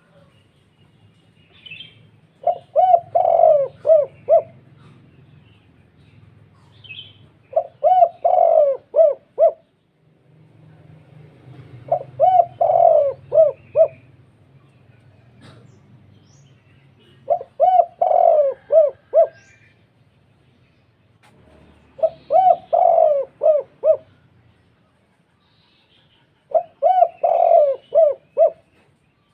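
Spotted dove cooing in six phrases about five seconds apart, each a quick run of five or six short coos. A deep, full-voiced 'kuk' call, the kind that provokes rival spotted doves.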